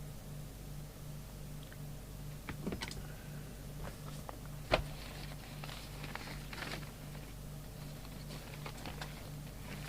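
Small clicks and rustles of a CB microphone lead and its plug being handled, with one sharp click about five seconds in. Under them runs a steady low hum that pulses a few times a second.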